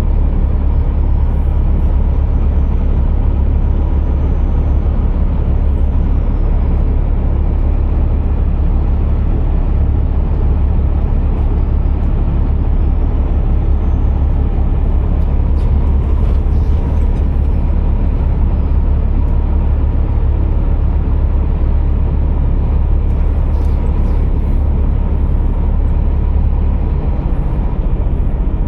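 Scania R480 heavy truck's diesel engine running, a steady low drone with a broad rumble over it. The low drone changes slightly near the end.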